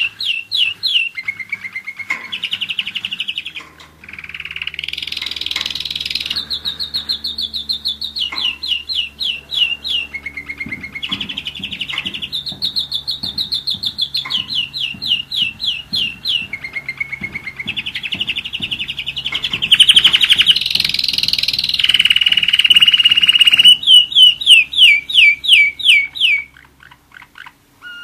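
German roller-split canary singing a long continuous song of rapid trills and quickly repeated notes, switching to a new phrase every second or two, which breaks off shortly before the end.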